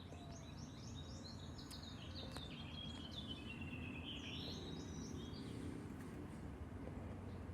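Small birds chirping and singing in a rapid flurry of high calls over a steady low background rumble; the birdsong thins out about halfway through.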